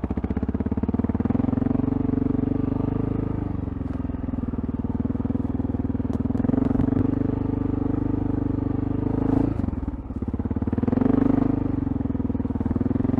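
Dirt bike engine running at low revs in first gear as the bike putters through soft sand, the revs wavering up and down. The engine note dips briefly about nine and a half seconds in, then picks back up.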